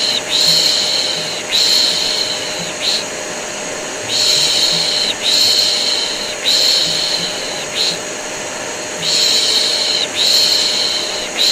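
Rhythmic 'piş piş' shushing, the Turkish way of hushing a baby: groups of three long shushes and a short one, repeating about every four seconds. It runs over the steady drone of a vacuum cleaner, together making white noise to soothe a colicky baby.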